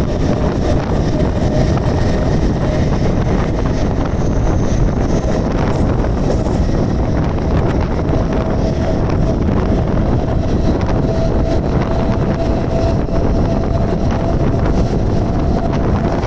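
Mumbai suburban electric local train running steadily, with a continuous low rumble, wind rushing on the microphone, and a faint motor whine that rises slowly in pitch as the train gathers speed.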